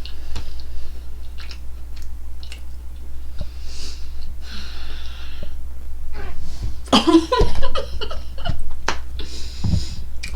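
A person chewing a mouthful of chicken nuggets and breathing heavily through the nose between swallows, with small wet mouth clicks. The breath comes in repeated hissy puffs, and a louder burst of breath and mouth noise comes about seven seconds in.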